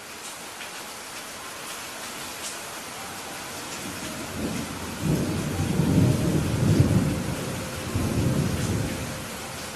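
Steady rain falling, with a roll of thunder rumbling in about halfway through, swelling twice and fading away near the end.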